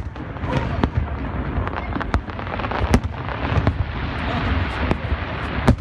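Aerial display fireworks going off in quick succession: a continuous low rumble of bursts with sharp bangs and crackles about once a second.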